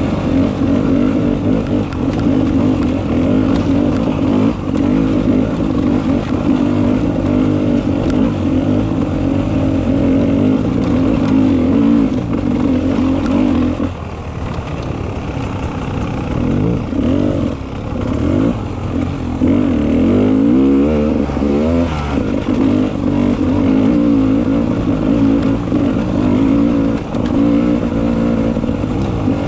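Beta 300 RR two-stroke single-cylinder enduro motorcycle engine running under steady throttle; about halfway through the revs drop and rise repeatedly for several seconds, then it settles back to a steady pull.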